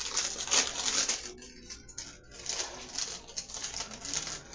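A snack bag of crackers crinkling and rustling as it is handled and opened at the bottom, in repeated bursts with a short lull about a second and a half in.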